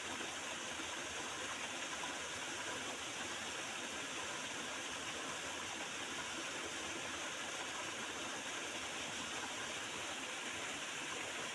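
Small river's water running and gurgling over its bed: a steady, even rush.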